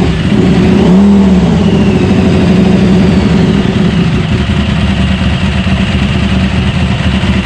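A vehicle engine running loudly at a fast idle, with a short rise in revs about a second in before it settles to a steady note.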